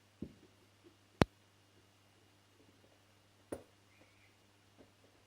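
A few sharp knocks and clicks of metal turbocharger parts being handled and fitted together during reassembly. The loudest is a single crisp click about a second in, with softer knocks just before it and again past the middle.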